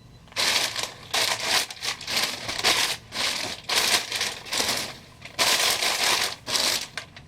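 Packing paper rustling and crinkling in a run of irregular bursts as hands rummage through a shipping box.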